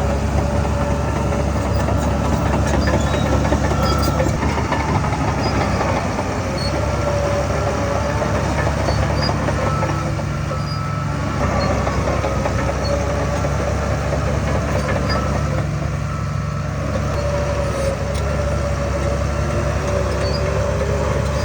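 Heavy diesel earthmoving machinery running steadily under load, a deep engine drone with a steady high whine over it.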